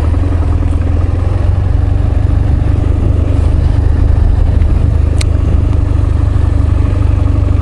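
Motorcycle engine running at a steady cruise, a low, even drone with no change in pitch. A short sharp click comes about five seconds in.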